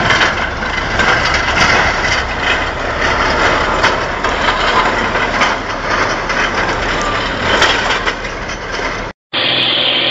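Heavy truck running, a dense mechanical noise with scattered sharp knocks and clatter. It breaks off suddenly about nine seconds in, and a steadier engine hum follows.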